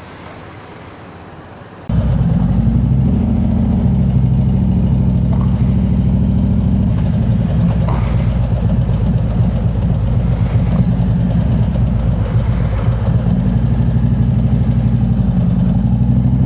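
Harley-Davidson Road King's V-twin engine running, a loud, steady low rumble that sets in abruptly about two seconds in.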